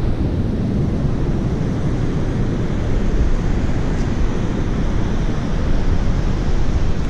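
Wind buffeting the microphone: a loud, steady, rumbling rush.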